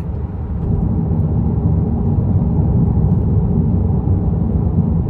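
Steady low rumble with no clear rhythm or pitch.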